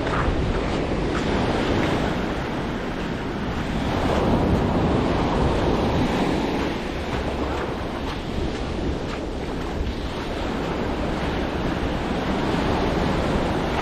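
Ocean surf breaking on a beach, the wash swelling and easing in slow surges, with wind buffeting the microphone.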